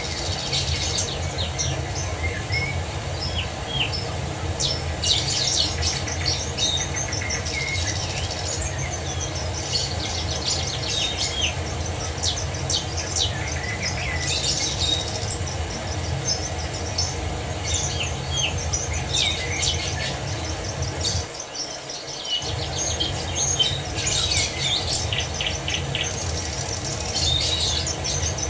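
Many songbirds chirping and trilling over a steady rush of falling water. The whole sound cuts out for about a second roughly three quarters of the way through, then resumes.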